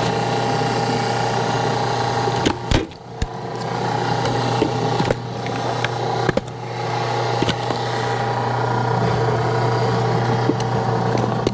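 Hydraulic log splitter running with a steady mechanical hum as its ram presses into a log, with scattered sharp cracks and knocks of the wood giving way. It is a low-tonnage splitter with a thin piston that works slowly but still splits the rounds.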